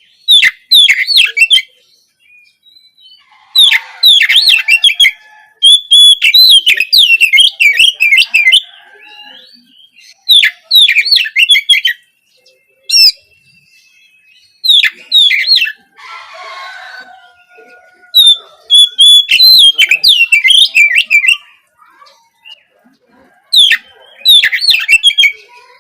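Oriental magpie-robin singing loud bursts of rapid, varied whistled notes, phrase after phrase with short pauses between. About halfway through there is a rougher, scratchier call.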